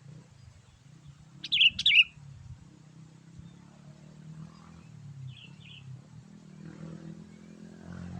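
Sooty-headed bulbul (kutilang) calling: a loud quick burst of chirps about a second and a half in, then two fainter chirps a few seconds later, over a steady low hum.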